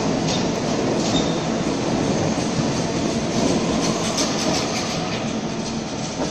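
Double-deck electric suburban train running past the platform of an underground station, its wheels clattering over the rails, the noise fading near the end as the last car moves off into the tunnel.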